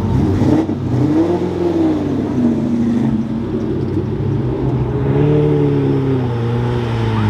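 Lamborghini Murciélago V12 being revved as it rolls in: the engine pitch swings up and down near the start and rises again about five seconds in, over a steady low engine hum.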